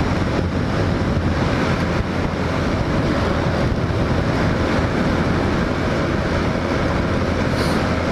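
Wind rushing over the microphone with the Hawk 250 dual-sport motorcycle's single-cylinder engine running underneath at a steady cruising speed.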